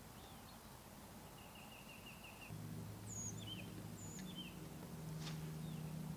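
Songbirds calling in the background: a quick trill of repeated notes, then several short chirps and high down-slurred whistles. About two and a half seconds in, a low steady motor hum joins.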